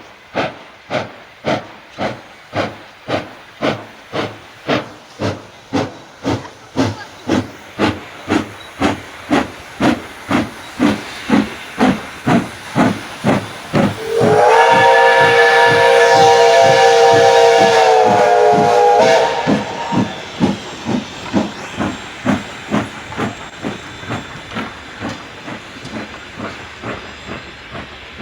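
Steam locomotive chuffing in an even rhythm of about two beats a second that slowly quickens, with a long chord-like steam whistle blast of several notes about halfway through, lasting some five seconds. After the whistle the chuffing goes on and grows fainter as the engine moves away.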